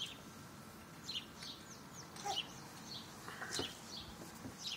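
Birds chirping: short, high calls scattered through, some sliding down in pitch, with a few faint clicks.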